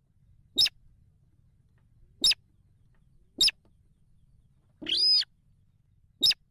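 Rail chicks (sintar) giving short, high-pitched peeping calls, five in a row about one to two seconds apart, the fourth one longer.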